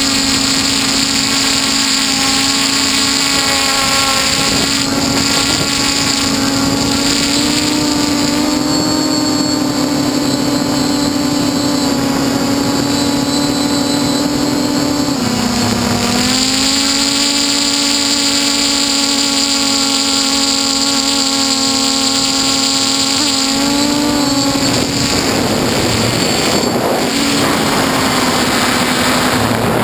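F450 quadcopter's brushless motors and propellers buzzing steadily in flight. The pitch dips briefly about halfway through, then comes back up and shifts again a few seconds later as the throttle changes.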